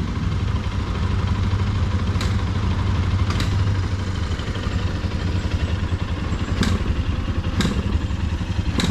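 Royal Enfield Himalayan single-cylinder motorcycle engine running steadily at low revs, with a few sharp clicks scattered through.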